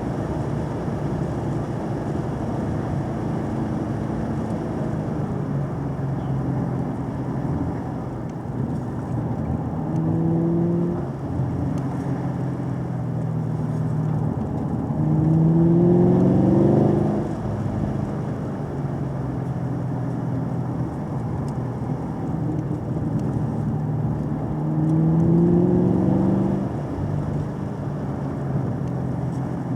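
Car engine and tyre noise at a steady cruise, with the engine pitch rising three times as it accelerates: briefly about ten seconds in, most strongly and loudest around the middle, and again near the end.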